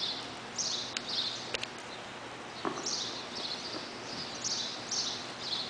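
Small birds chirping: short high chirps in little clusters every second or so, over a steady background hiss, with a few sharp clicks.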